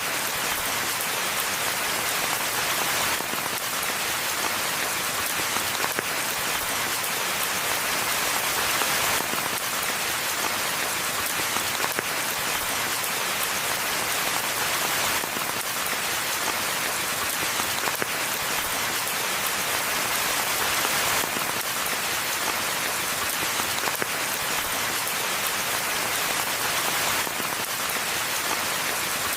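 Steady rain falling, a dense, even hiss of countless drops that neither builds nor eases.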